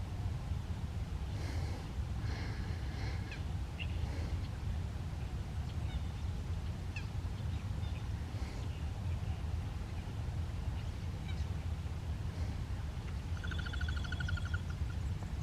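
Birds calling in the open, short chirps and calls scattered over a steady low rumble. A little after 13 seconds a rapid run of repeated harsh notes sounds for about a second and a half.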